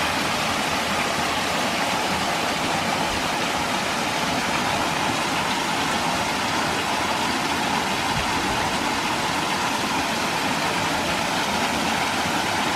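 Water running steadily over a small double cascade waterfall on a creek.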